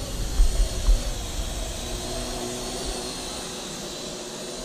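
Wind rumbling and buffeting on the microphone for the first second or so. Then a steady hiss with a faint hum.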